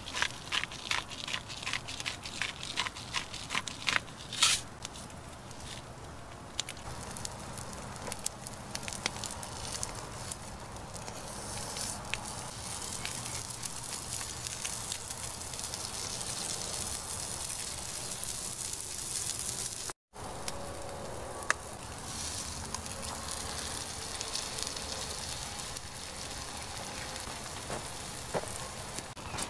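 Wood fire crackling, with many sharp pops in the first few seconds that give way to a steadier hiss and scattered crackles.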